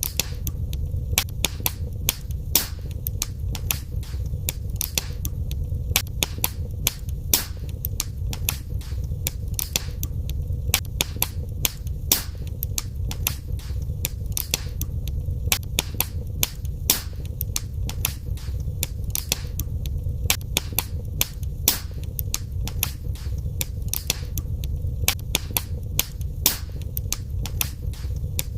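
Wood fire burning in a fireplace, crackling steadily: frequent sharp pops and snaps at irregular intervals over a low, even rumble of the flames.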